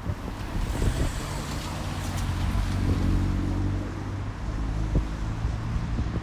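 A road vehicle passing close by: tyre hiss builds, then its engine hum swells about three seconds in and fades away, over steady background traffic.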